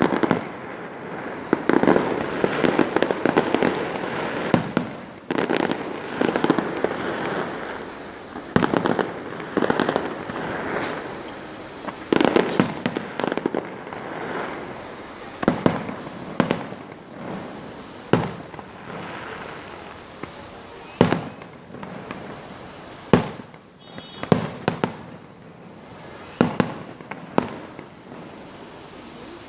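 Fireworks display: aerial shells bursting in repeated sharp bangs with crackling between them, coming thick and fast at first and more spaced out in the second half.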